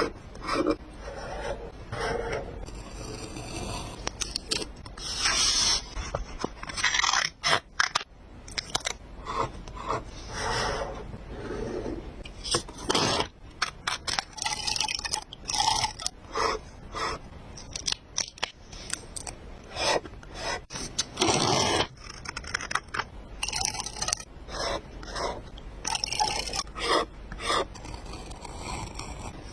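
Paper and stickers being handled on a journal page: short, irregular scraping and rubbing strokes, as pieces are peeled, laid down and pressed flat.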